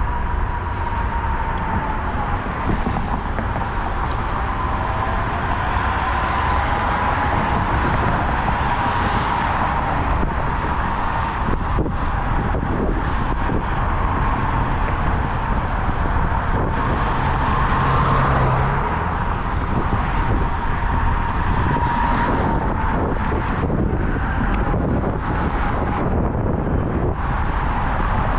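Steady road traffic noise, a continuous rush of passing vehicles with a wavering hum running through it.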